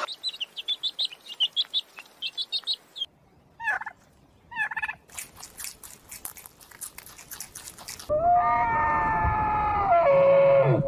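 Quail chicks peeping in quick, high chirps for about three seconds. A few short sliding chirps and a run of clicks follow. About eight seconds in, an elk gives one long drawn-out call that drops in pitch just before the end.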